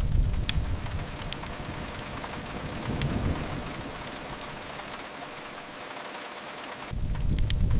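Steady rain with a few sharp crackles from a wood fire, under a deep rumble that swells near the start, again about three seconds in, and again near the end.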